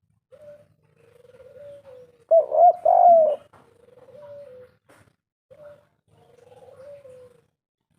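Spotted dove (derkuku) cooing in the three-note 'kuk 3' style. Soft purring coo phrases repeat throughout, and a loud three-note coo comes about two and a half seconds in.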